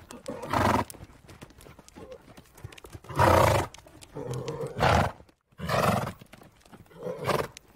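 Horse grazing: a steady scatter of small crisp clicks of grass being cropped and chewed. Six short, louder, noisy bursts are spread through it, the loudest about three seconds in.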